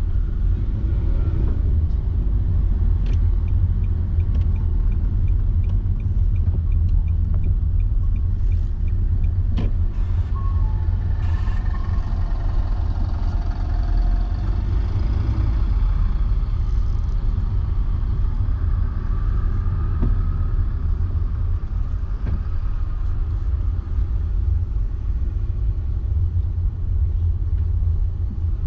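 Car driving along a road: a steady low rumble of road and engine noise. A light, regular ticking runs through roughly the first third and stops about 9.5 seconds in.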